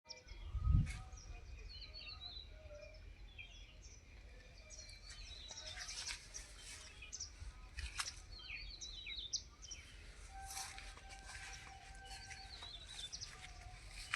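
Several small birds chirping and trilling over a low outdoor rumble, with a low thump about a second in.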